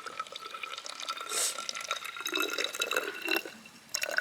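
White vinegar being poured into a plastic toy rocket body, a continuous trickle and splash of liquid with a faint steady ringing tone as the tube fills.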